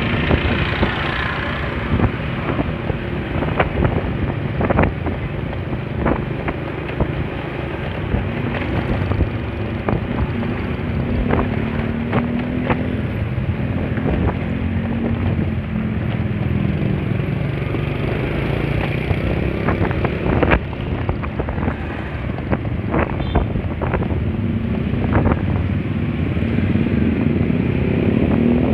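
Honda Spacy scooter engine running under way, its pitch rising and falling with speed, with wind buffeting the microphone and scattered sharp knocks.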